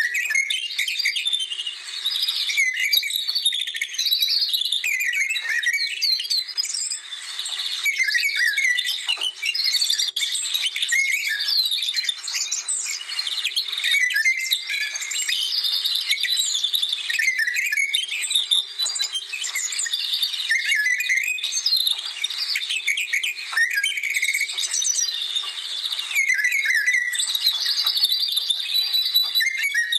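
Many birds singing at once: a dense, continuous chorus of overlapping chirps and trills.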